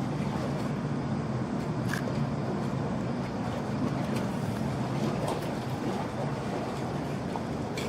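Steady low engine rumble with a haze of background noise and a few faint clicks.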